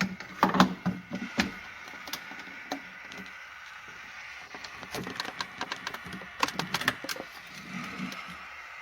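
Objects being handled: a run of sharp clicks, knocks and light clatter, densest in the first second and a half and again around five to seven seconds in, over a faint steady hum.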